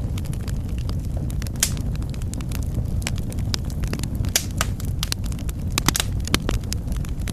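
Fire in a fireplace crackling: irregular sharp pops and snaps over a steady low rush of the flames, with a few louder pops a little past the middle.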